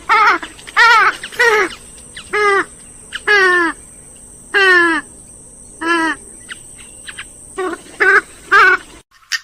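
Grey-headed swamphen calling: a loud series of about a dozen short calls, each sliding down in pitch, some in quick pairs.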